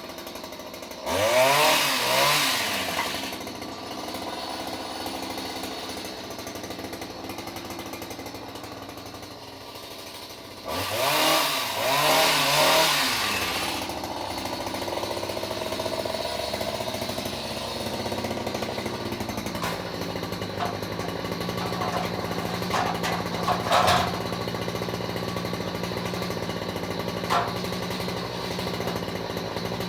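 Two-stroke chainsaw revved up twice, about a second in and again around eleven seconds in, each rev rising and then falling back, and running at a steady idle in between. A few sharp knocks come near the end.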